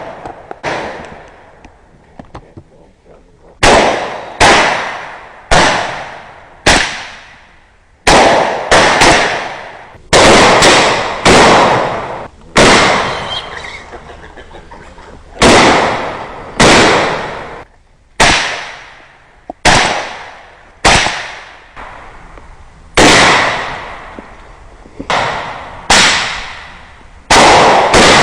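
Rapid gunfire, about two dozen shots at uneven spacing, some in quick pairs, each a sharp crack with a short echoing decay.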